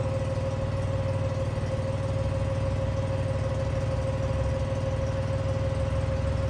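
Engine idling steadily at constant speed, with a steady mid-pitched whine running over the low engine hum.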